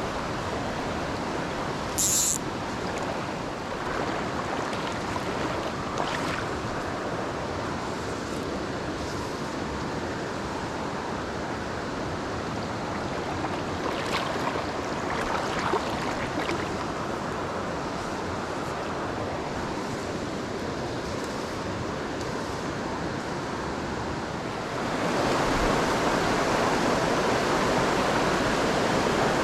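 Mountain stream water rushing steadily over rocks, with a short high hiss about two seconds in and a few faint ticks later. The rush grows louder about 25 seconds in.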